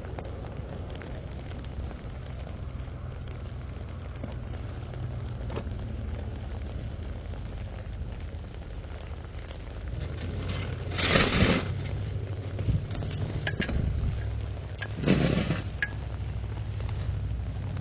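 Steady rain falling on an umbrella over a constant low rumble, with two louder rushes of noise, each about half a second long, partway through, and a few small clinks between them.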